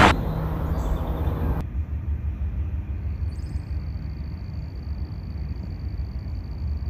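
Riding lawnmower engine running, a steady low rumble; the sound drops a little quieter and duller about a second and a half in.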